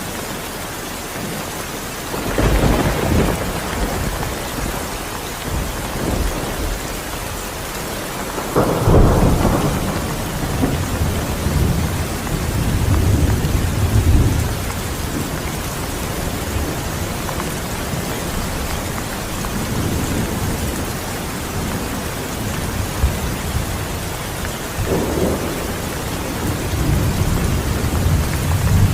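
Steady rain with rolling thunder. Deep rumbles swell about two seconds in, loudest about nine seconds in, then again around fourteen seconds and near the end.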